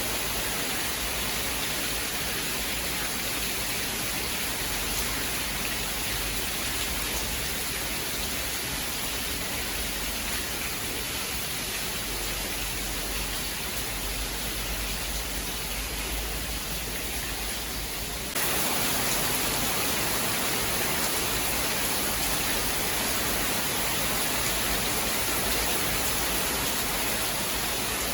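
Steady rain falling, an even hiss without thunder. About two-thirds of the way through it switches abruptly to a slightly louder, brighter rain sound, an edit between recordings.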